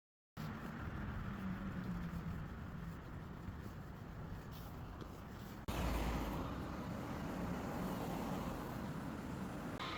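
Steady rumble of a train running, starting a moment in. It jumps abruptly to a louder, deeper rumble a little over halfway through, like a cut between two clips.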